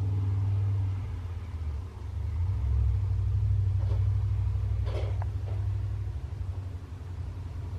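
A low, steady rumble that swells from about two seconds in and eases after about five seconds, with a brief, faint higher sound near the five-second mark.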